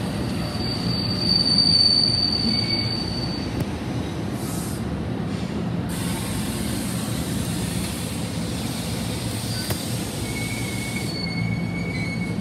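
NJ Transit double-deck Multilevel commuter train rolling past, its wheels making a steady rumble on the rails. A thin high-pitched wheel squeal rises about a second in, and a lower squeal comes in near the end.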